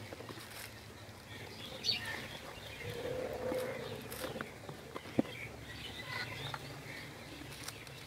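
Small birds chirping now and then outdoors, with a few sharp clicks.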